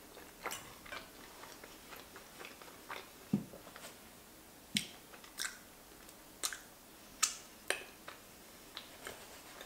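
A person chewing a mouthful of giant fusilli pasta in a thick sauce, with irregular short, sharp mouth clicks and smacks.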